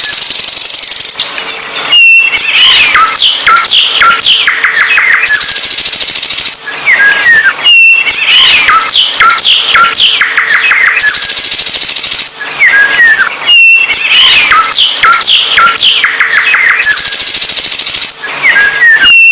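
A songbird singing hard: a dense run of chirps, whistled sweeps and rapid trills, with one sequence repeating about every six seconds, as in a looped recording.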